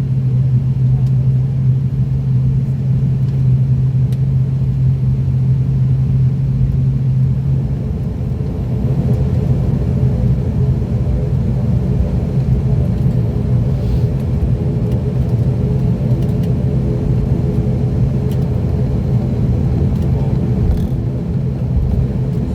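The ATR 42-600's twin turboprop engines and propellers droning steadily, heard from inside the passenger cabin. A strong low propeller hum weakens about eight seconds in, and a set of higher steady tones comes through more plainly.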